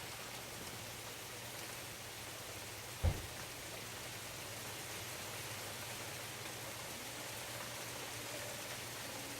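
Steady rain falling, an even hiss throughout. A single short, dull thump about three seconds in.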